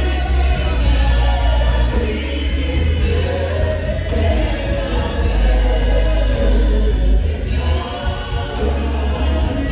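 Gospel music: a choir singing over a strong, steady bass.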